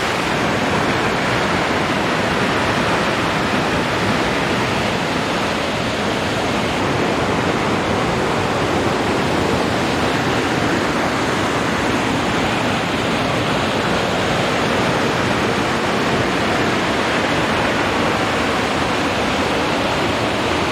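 Loud, steady rush of a nearby waterfall, an unbroken roar of falling water.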